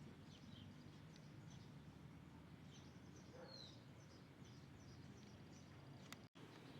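Small birds chirping faintly: many short, high calls and one downward-slurred call about halfway through, over a low steady background rumble. The sound cuts out for an instant near the end.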